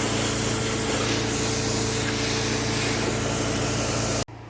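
Water spraying from a rinse hose onto a motorcycle as it is rinsed with deionized, filtered water, over a steady machine hum. The sound cuts off abruptly near the end.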